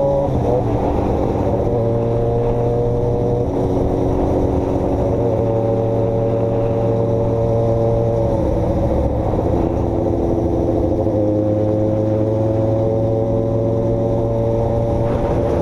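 Motor vehicle engine running steadily under way, muffled, with its pitch dropping in steps and then climbing slowly as the speed changes.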